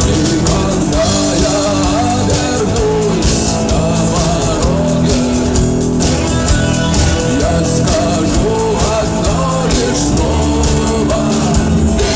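Rock band playing with a singer: vocals over electric guitar, bass and a drum kit.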